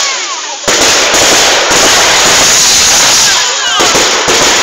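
Fireworks going off close by: a loud, dense, continuous crackle of bursts. It dips briefly and comes back suddenly under a second in, with a few faint whistles near the start and again near the end.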